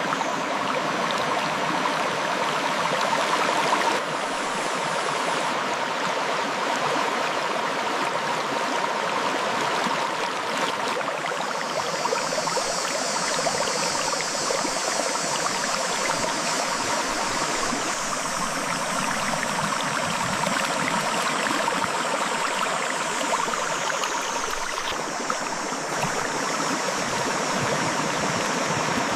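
River water flowing over rocks, a steady rushing and gurgling. A higher hiss is layered on top for about the middle half.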